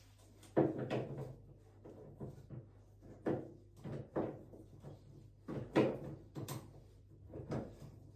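Irregular knocks and clunks, about seven, of a washing machine's parts and panels being handled and shifted during repair, over a faint steady low hum.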